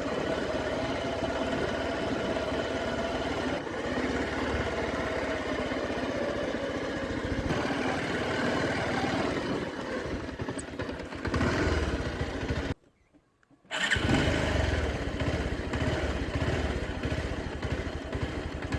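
Motorcycle engine running as the bike is ridden along. Past the middle the sound cuts out abruptly to silence for about a second, then resumes.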